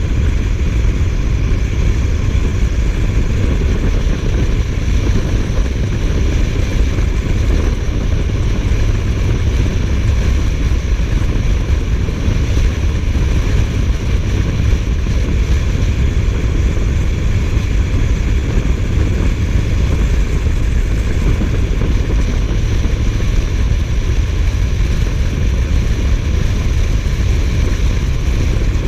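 Suzuki GSF1250S Bandit motorcycle riding at a steady cruising speed: heavy wind rush on the microphone over the engine's steady drone, with no change in pace.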